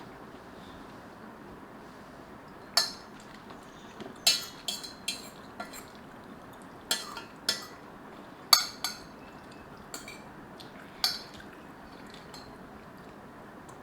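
Metal utensils clinking against a dish, about ten sharp ringing clinks at irregular intervals.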